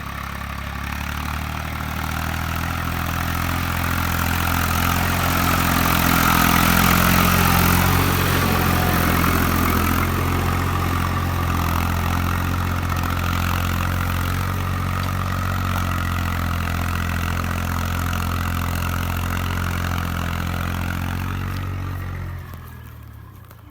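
Tractor diesel engine running at a steady speed, loudest about a quarter of the way in, then dropping away sharply near the end.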